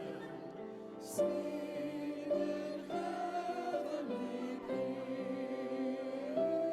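Music: a choir singing slow, held notes, changing pitch about once a second.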